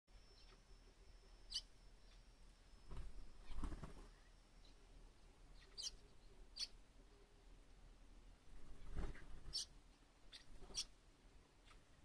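Short, high-pitched bird chirps, about half a dozen, some single and some in quick pairs, with quiet between them. Twice a low rumbling noise swells for about a second, around three seconds in and again near nine seconds.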